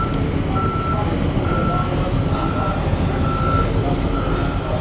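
Skid steer loader's reversing alarm beeping steadily, about one beep a second, over the loader's engine running.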